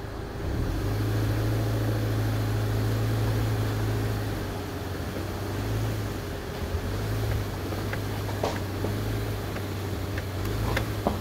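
2022 Subaru Crosstrek's flat-four engine pulling steadily at low speed up a rocky dirt slope in X-Mode, heard from inside the cabin. The engine note steps up about half a second in and eases off a few seconds later, with a few sharp clicks near the end.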